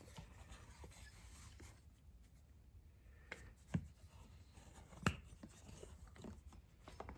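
Faint handling noises of small metal parts and tools on a bench: scattered light clicks and knocks, with two sharper knocks a little past the middle.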